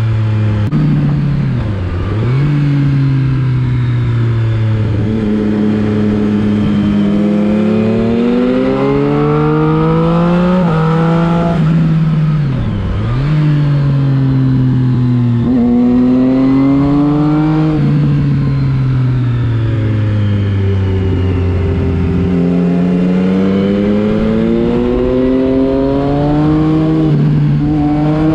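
Triumph Street Triple 675's three-cylinder engine pulling hard through the gears: the pitch climbs steadily and drops sharply at each upshift, several times over. Twice, about two seconds in and again near the middle, the revs dip briefly as the throttle closes and then pick up again.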